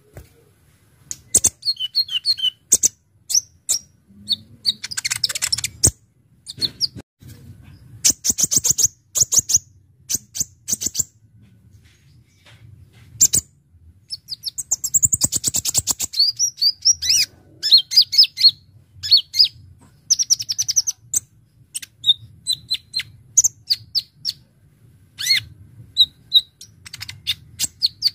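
Sunbird of the kind sold in Indonesia as kolibri ninja, singing a fast, varied run of sharp high chirps and rapid rattling trills, in phrases broken by short pauses.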